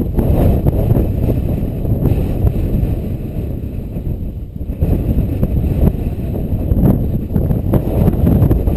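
Strong Bora wind gusting and buffeting the microphone, a loud low rumble that eases briefly about four seconds in before picking up again.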